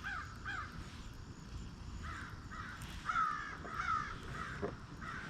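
A bird calling over and over: a couple of calls at the start, then a quick run of calls from about two seconds in.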